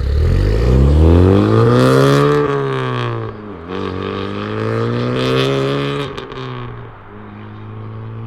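Honda Civic Type R's turbocharged 2.0-litre four-cylinder pulling hard and passing by, catless downpipe and valved exhaust with the valves closed. The revs climb for about two and a half seconds, drop sharply once about three and a half seconds in, climb again, then fade as the car goes away.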